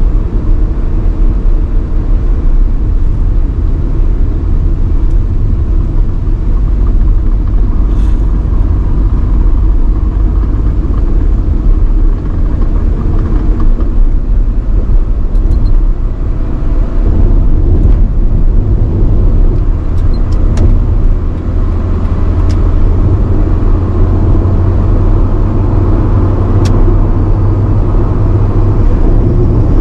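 A 1985 Nissan Sunny B12 driving along, with a steady low engine drone and road noise. The low drone gets a little stronger past the middle, and a few brief clicks sound now and then.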